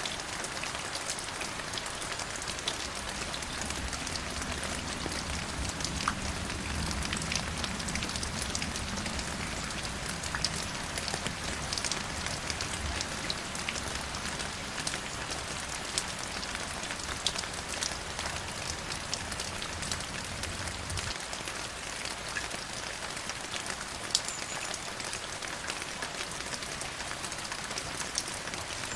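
Steady rain with many individual drops ticking. A low rumble underneath cuts off suddenly about two-thirds of the way through.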